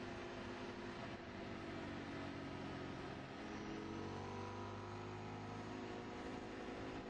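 Motorcycle engine running under way, recorded from a camcorder on the bike itself, over steady wind and road noise. The engine note sags and then climbs again from about four seconds in.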